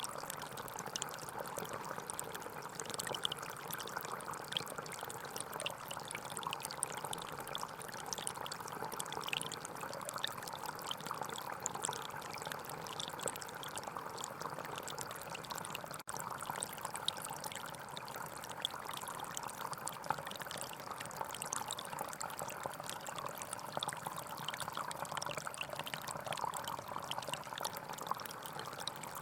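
Gentle forest stream flowing: a steady, continuous babble of running water with many small spatters, broken for an instant about sixteen seconds in.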